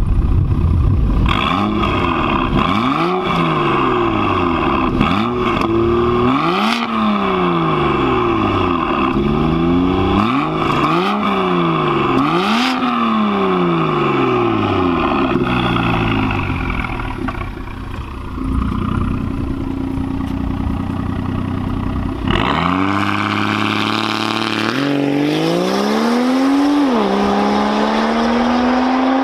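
Volvo V60 Polestar engine breathing through an aftermarket downpipe and turbo inlet kit, revved repeatedly while standing, each rev rising and falling in pitch. It then settles to a steadier note, and a little over 20 seconds in it pulls away hard, the engine note climbing, dropping once at an upshift and climbing again.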